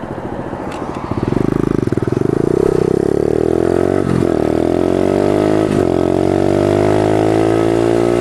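Pit bike's small single-cylinder engine accelerating hard: it opens up about a second in and climbs in pitch, dips briefly twice as gears are shifted, then keeps running high and steady at speed.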